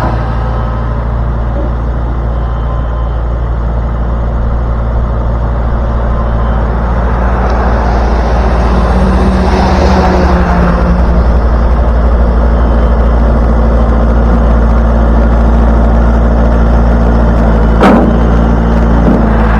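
Truck engine running steadily with road noise. It gets louder about six seconds in, and there is a single sharp click near the end.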